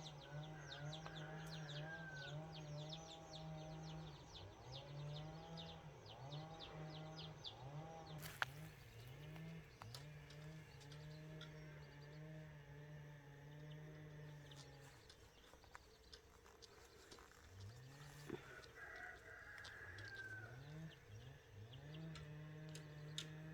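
Faint cattle lowing, a run of long low moos one after another, with a bird chirping rapidly over the first few seconds.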